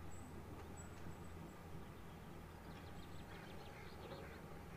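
Faint outdoor birdsong from small birds: a thin high whistle about a second long near the start, then a run of quick chirps in the middle, over a steady low rumble.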